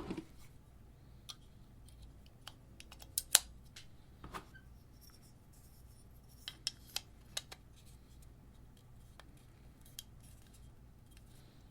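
Faint, scattered clicks and taps of small parts being handled: an AA battery being fitted into a microphone's metal-cased battery housing. The loudest clicks come as a pair about three seconds in, with a few more between six and seven and a half seconds.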